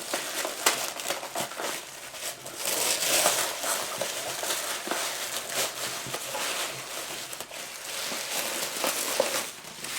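Packaging crinkling and rustling as it is handled and unwrapped by hand, with scattered crackles and clicks.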